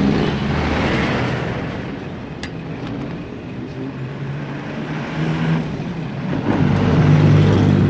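Engine hum of passing road vehicles, loud at the start, fading away, then swelling again near the end as another vehicle goes by. A single sharp click about two and a half seconds in.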